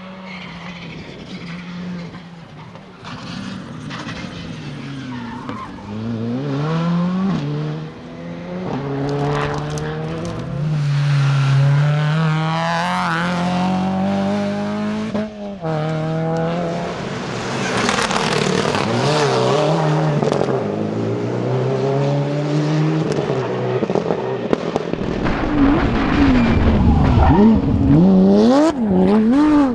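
Rally car engine at full throttle on a stage, revs climbing and dropping sharply with gear changes and lifts, growing louder as the car closes in, with the quickest up-and-down revving and the loudest moment near the end.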